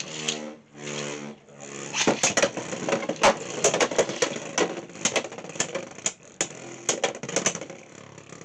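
Beyblade X tops launched into a plastic stadium: a brief whirring launch, then spinning tops grinding against the floor with many sharp clacks as they collide.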